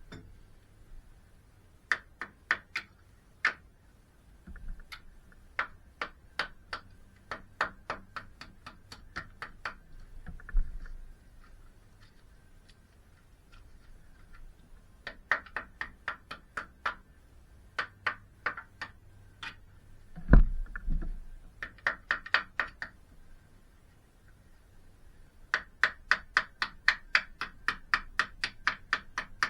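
Hammer striking metal in runs of quick blows, about three a second, each with a short metallic ring. A couple of heavier, duller knocks come about a third and two thirds of the way through.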